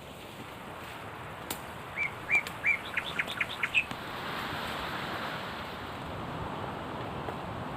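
A bird calling: three short notes about two seconds in, followed by a quick run of about six higher notes, over a steady background hiss.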